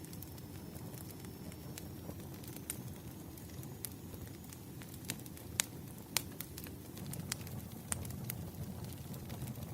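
Campfire burning and crackling: a steady low rumble of flames with scattered sharp pops, the loudest few around the middle.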